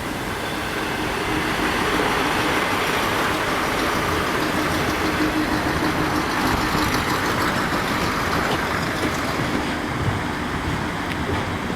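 Electric suburban train running past on the line: a steady rush of wheel and rail noise with a low hum. It builds over the first couple of seconds and eases a little near the end.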